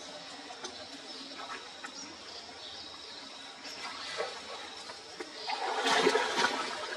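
Water splashing and pouring during a small monkey's bath, with a louder rush of water for about a second near the end.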